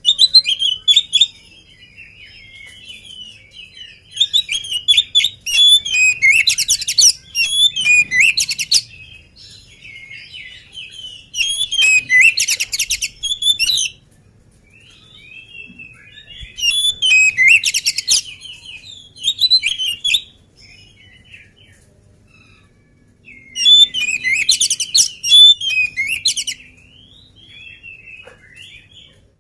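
Oriental magpie-robin (kacer) singing loudly in about five bouts of quick, varied whistled notes, several bouts with fast rattling trills, separated by pauses of a couple of seconds.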